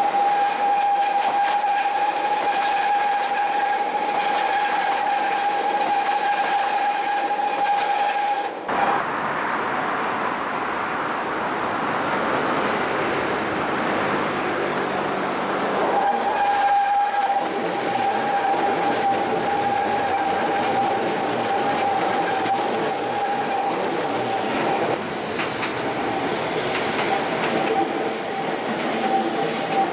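Keihan 800-series electric train running past with wheel and rail noise, over a level-crossing warning bell ringing steadily. The bell stops about nine seconds in and starts again about halfway through.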